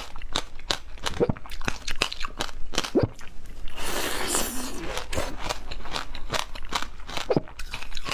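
Frozen passion fruit ice being bitten and chewed close to the microphone: a rapid run of sharp, crisp crunches, with a brief hissy rustle about four seconds in.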